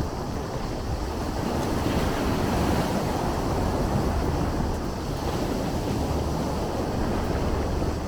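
Sea surf washing on the shore, a continuous rush that swells for a few seconds near the middle, with a steady low rumble underneath.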